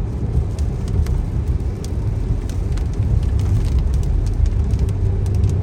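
Car cabin noise while driving in rain: a steady low road and engine rumble, with scattered ticks of raindrops hitting the car.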